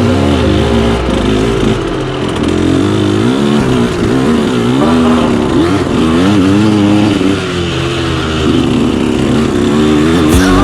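KTM 125SX two-stroke single-cylinder dirt bike engine being ridden hard, its pitch rising and falling over and over as the throttle is worked.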